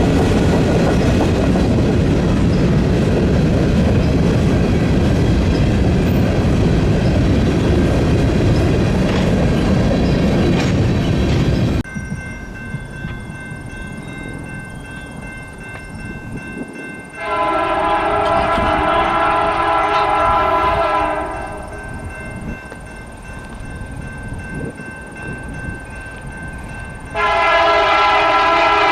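A passing freight train rumbles loudly for about twelve seconds, then cuts off abruptly. After that, a CN freight locomotive horn sounds two long multi-tone blasts: one about 17 seconds in lasting some four seconds, and another starting near the end.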